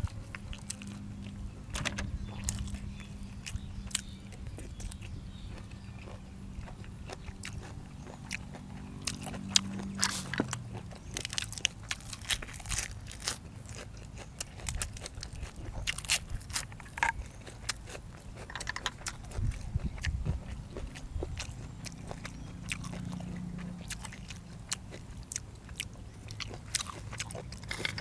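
Close-miked chewing and crunching of boiled field apple snails and raw vegetables, with wet mouth clicks and crackles throughout. A low droning hum sits underneath and falls away in pitch about ten seconds in.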